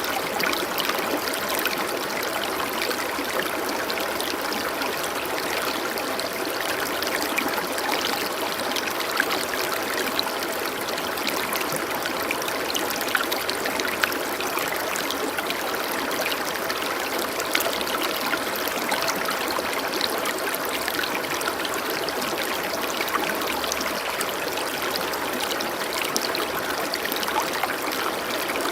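Water flowing steadily in a stream: a continuous trickling rush with small splashes standing out now and then.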